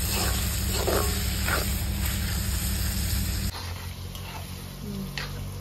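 Pork pieces sizzling in a black wok, with a spatula scraping through them at intervals as they are stirred. About three and a half seconds in, the sound drops abruptly to a quieter hiss.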